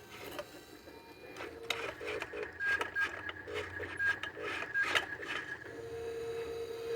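Electronic warning tones from a dump truck or earthmoving machine at work: a steady buzzer tone breaks into short choppy beeps with a higher beep over them, then returns steady near the end. Mechanical clicks and rattles sound throughout.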